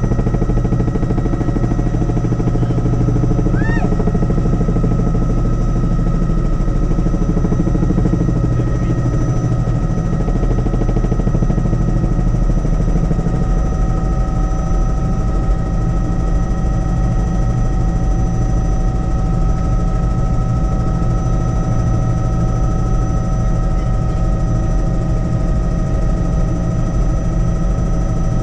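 Helicopter in flight: a loud, steady rapid beat from the rotor over a low rumble, with a constant high whine.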